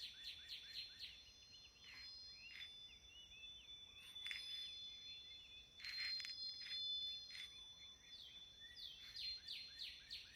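Soft chimes ringing faintly with long, steady high tones, over birds chirping. A bird's quick run of repeated chirps, several a second, comes at the start and again near the end.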